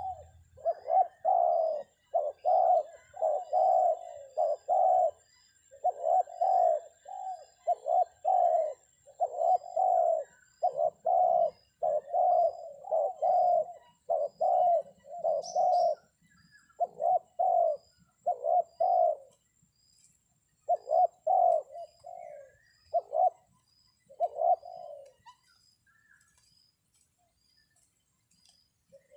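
Spotted dove (terkukur) cooing: a long series of low coos in quick phrases with short pauses, stopping about 25 s in. It is the decoy call used to lure wild doves down to the trap.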